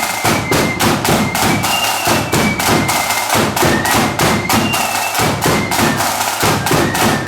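Marching flute band playing: a high flute melody over fast, heavy drumming.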